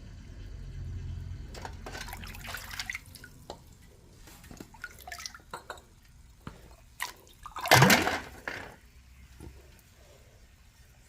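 Water dripping and splashing in irregular drops, with one much louder splash about eight seconds in.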